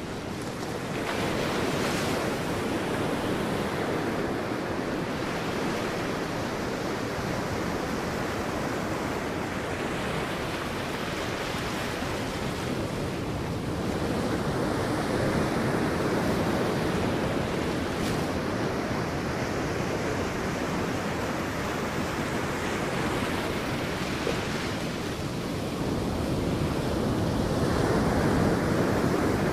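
Sea waves breaking and washing onto a beach, a steady roar of surf that swells with each breaker. Three stronger surges come about a second in, around the middle and near the end.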